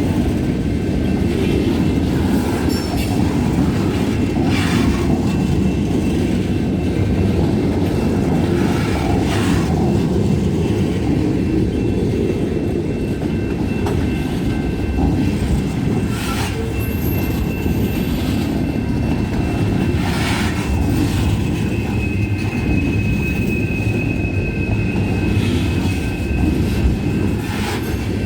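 Freight train cars rolling along the track with a steady heavy rumble and scattered clacks. Thin, high wheel squeal rises over it, held for several seconds past the middle.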